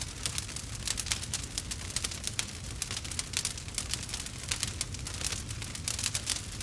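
Wood fire in a fireplace crackling: a dense, irregular run of small snaps and pops over a low steady rumble.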